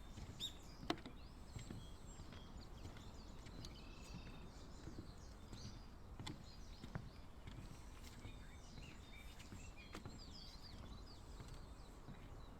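Small birds chirping and calling over a low outdoor background, with a few sharp clicks, the loudest about a second in.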